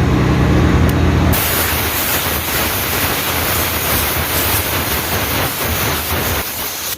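A steady motor hum for about a second, then a loud, even hiss of compressed air blowing through a truck air-filter element to clean it. The hiss cuts off suddenly near the end.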